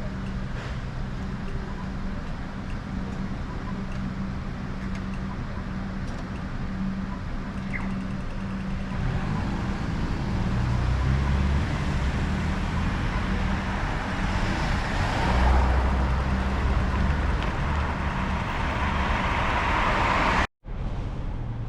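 Road traffic: motor vehicles passing close by over a steady low engine hum. The noise swells about two-thirds of the way in and again near the end, then cuts to silence for a moment.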